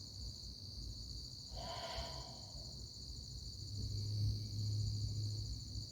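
Crickets chirring steadily at night. A short mid-pitched sound comes about two seconds in, and a low hum grows louder in the second half.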